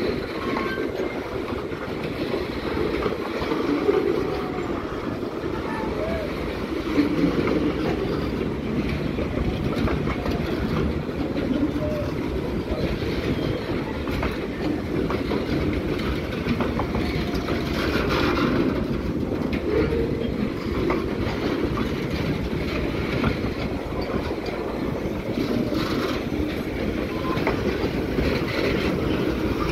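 Freight train of oil tank wagons rolling slowly past on the rails: a steady rumble of steel wheels on track with scattered clicks.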